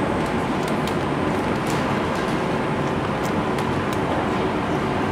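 A steady, loud rushing noise, over which come faint wet clicks and smacks of a man biting and chewing a burrito as fast as he can.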